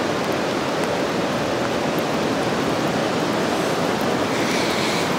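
Steady, even rushing noise of surf and rain on a rocky beach, with no separate strikes or tones.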